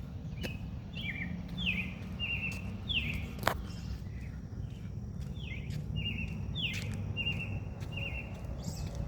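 A songbird singing two runs of repeated phrases, each a quick down-slurred note followed by a short trill, over a steady low rumble. A single sharp click comes about three and a half seconds in.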